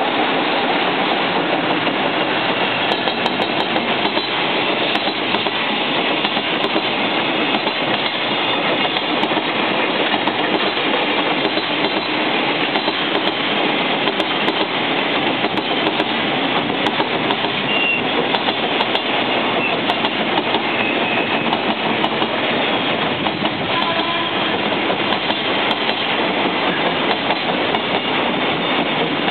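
A train rolling past, its wheels running on the rails, the sound holding at an even level with no horn.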